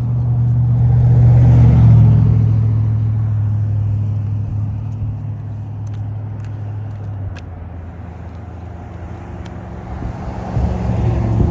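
A car's engine and road noise: a steady low hum that swells about two seconds in, fades away, then rises again near the end.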